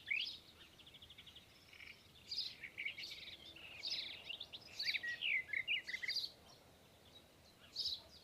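Birdsong: a busy run of varied chirps and short whistles, with a fast trill about a second in, then a pause and one more call near the end.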